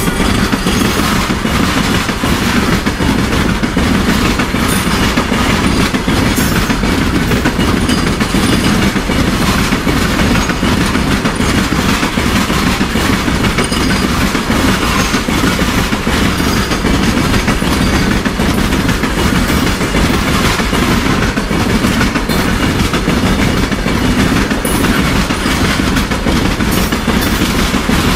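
Loaded open-top freight wagons of a long goods train rolling past close by: a steady loud rumble of steel wheels on rail, with the clickety-clack of wheels over the rail joints.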